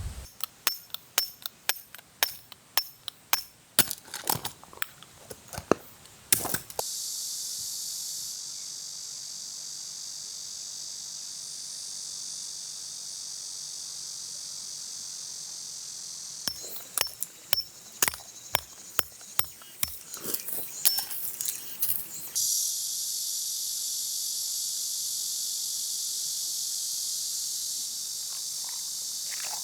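A steady, high-pitched insect chorus, broken twice by a few seconds of sharp clicks and knocks in quick, irregular succession, like small hard objects being handled and set down.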